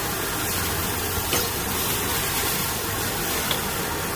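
Pad thai stir-frying in a wok: a steady sizzling hiss, with a faint click about a second in and another near the end.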